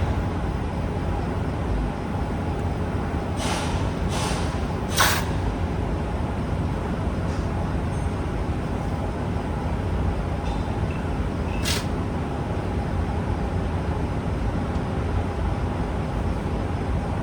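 Steady low workshop rumble with brief hisses of compressed air: three close together about three and a half to five seconds in, and one more near twelve seconds.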